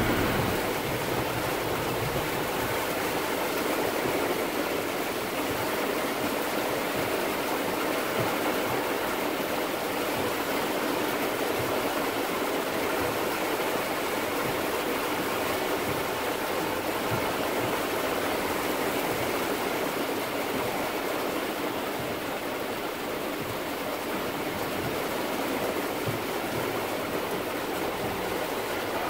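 Steady, even rushing hiss of a heavy downpour and stormwater running along a wet street, heard from a car.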